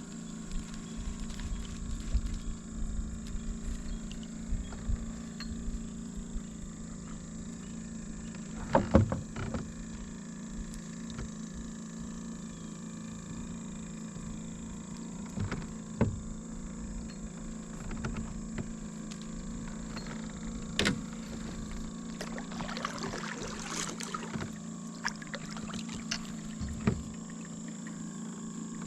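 Kayak on the water being paddled: scattered knocks and splashes of the paddle against the hull and water, loudest about nine seconds in and in a cluster a little past twenty seconds, over a steady low hum.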